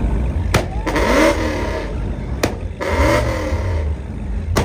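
Car engine revved in repeated blips about every two seconds, each rising in pitch and opening with a sharp crack, over a steady deep rumble.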